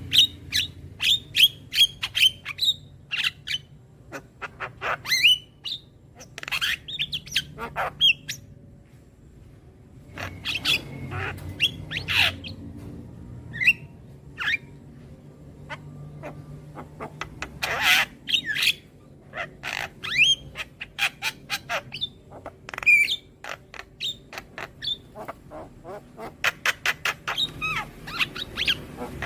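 Javan myna (jalak kebo) calling: rapid runs of harsh chattering notes and squawks mixed with short rising whistles, broken by brief pauses.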